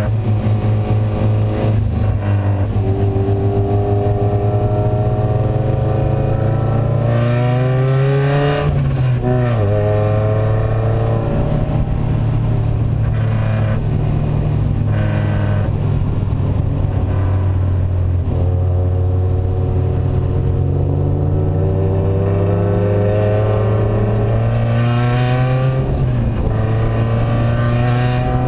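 Vehicle engine with an open, unsilenced exhaust pulling under load. It climbs in pitch as it accelerates, drops sharply about a third of the way in, then climbs and drops again near the end, like gear changes.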